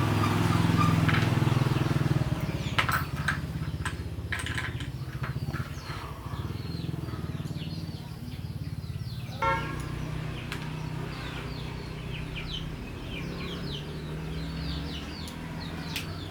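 Restored air compressor running with a steady low drone, birds chirping over it.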